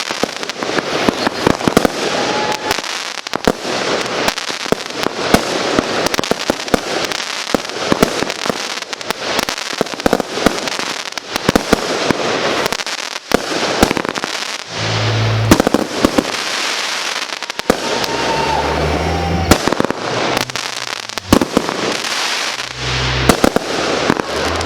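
Class C consumer fireworks going off in quick succession: a dense string of sharp shots and reports over continuous crackling.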